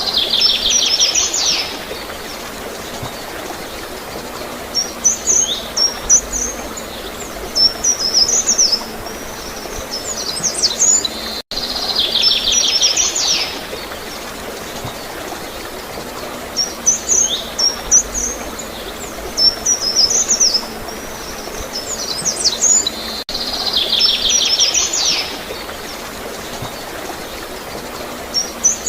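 Small birds singing, a fast trill followed by high chirps, over a steady flow of gurgling water. The same stretch of sound repeats about every twelve seconds, with a brief dropout at each join.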